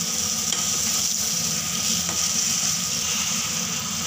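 Pointed gourd (parwal) pieces frying in thick masala in a nonstick kadai, sizzling steadily as a spatula stirs them through the paste.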